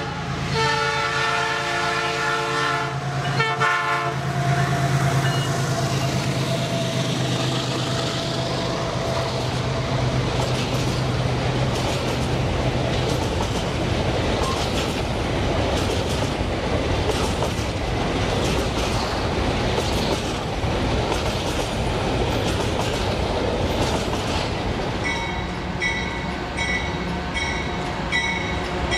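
Diesel freight train passing: a horn blast in the first few seconds, then the locomotive's low engine drone fades out under the steady rumble and clickety-clack of the wagons rolling over the rails. Near the end a fast, evenly repeating high ringing joins in.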